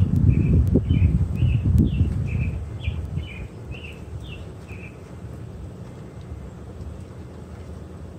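A small bird chirping: about a dozen short, quick notes, alternating higher and lower at roughly two a second, that stop about five seconds in. Under it is a low rumble, loudest in the first two or three seconds before it settles to a quieter steady hum.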